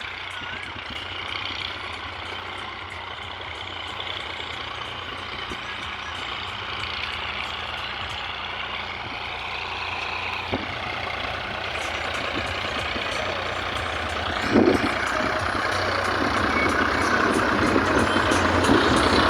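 Sonalika tractor's diesel engine running, growing steadily louder, with a sharp knock a little past halfway and a heavier thump about three-quarters of the way in.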